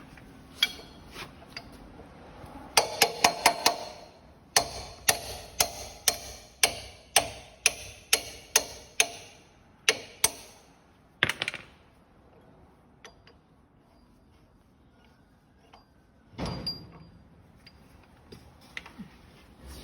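Hammer striking metal parts of a Buhler roller mill during disassembly, each blow ringing briefly. A quick run of about five blows comes first, then a steady series of about two a second for several seconds, then a few scattered blows and faint taps, and one duller thud near the end.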